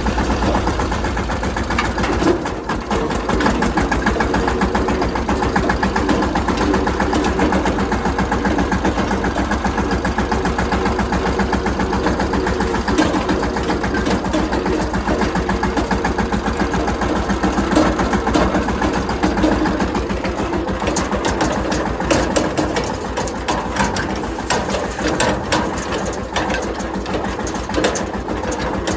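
Mahindra Yuvraj 215 tractor's single-cylinder diesel engine running with a fast, even chugging beat. From about two-thirds of the way in, irregular clattering and rattling join the engine.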